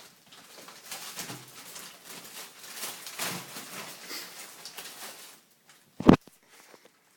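Kittens scuffling and scrabbling in play, a rustling, scratching noise, then one loud thump about six seconds in.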